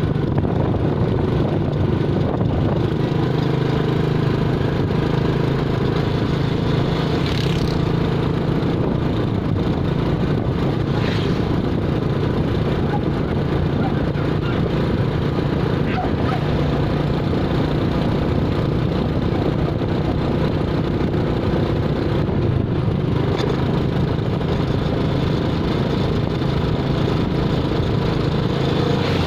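Motor vehicle engine running at a steady speed with road noise, holding an even drone without revving.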